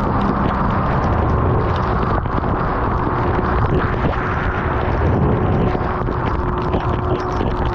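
Storm wind buffeting the microphone on a small boat at sea, a loud steady rumble with a faint constant hum running through it.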